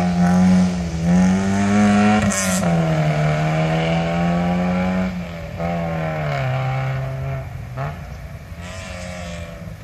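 Competition car's engine at full throttle on a sprint run, pitch climbing and then dropping at each of several gear changes, fading away near the end.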